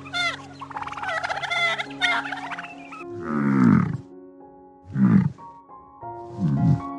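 Ducks quacking rapidly over steady background music for the first few seconds. Then come three separate low animal calls, each under a second long and falling in pitch, from a large farm animal.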